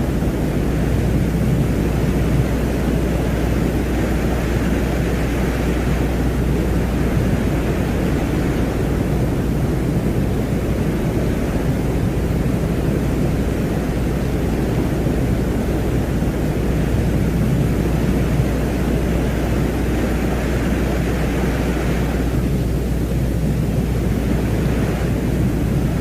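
A steady, low rumbling noise with a hiss above it, presented as the sound of Venus. The upper hiss thins out briefly about 22 seconds in.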